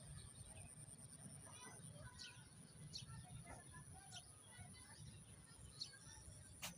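Faint bird chirps, short high notes scattered every second or so, over a low steady background rumble, with one sharp click just before the end.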